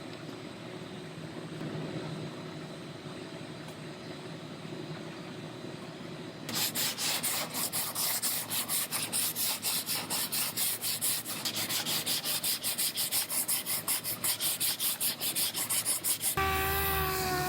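Hand sanding on body-panel repair: fast back-and-forth rubbing strokes, several a second, beginning about six seconds in after a steady low hum. A power tool's whine starts about a second before the end.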